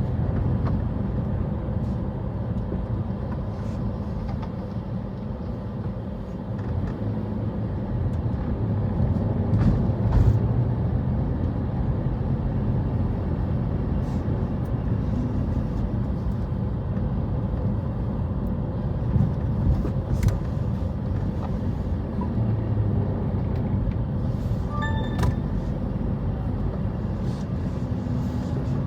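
Steady low rumble of a car driving, engine and road noise, with a few faint knocks and a short high beep about 25 seconds in.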